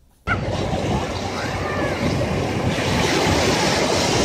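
Wind blowing over the microphone, with surf washing on the shore. It starts suddenly about a quarter second in and holds steady after that.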